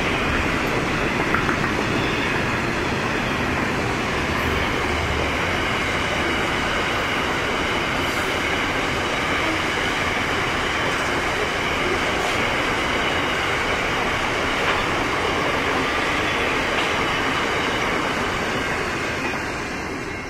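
Container wagons of a long freight train rolling past, a steady noise of wheels on rail that fades near the end as the tail of the train goes by.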